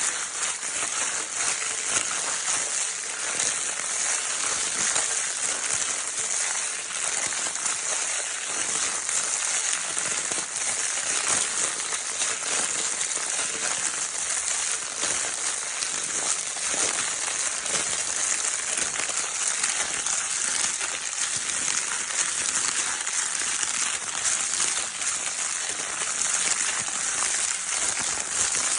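Crinkle paper from a baby's crinkle toy being crumpled and rustled without pause, a dense steady crackling.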